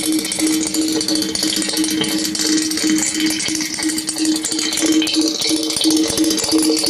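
Amplified borehole microphone feed: a steady, pulsing hum under a constant crackling, rattling hiss. The recordists take it for the sound of tunnel digging underground.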